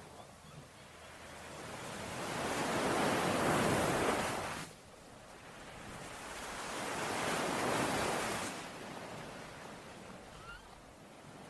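Ocean waves breaking on a shore: two surges of surf, the first building and then cutting off sharply about halfway through, the second swelling and fading away.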